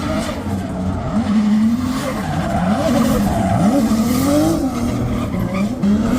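Drift car's engine revving up and down repeatedly, its pitch rising and falling several times, with tyres skidding across the pavement.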